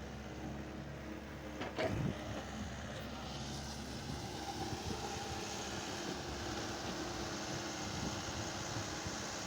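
Vehicle engine running steadily, with a short knock or clatter about two seconds in.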